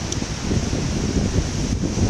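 Storm wind gusting against the camera microphone: a loud, uneven low rumble with rushing noise above it.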